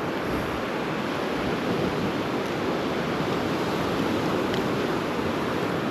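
Ocean surf washing steadily onto a beach, a continuous even rush of breaking waves.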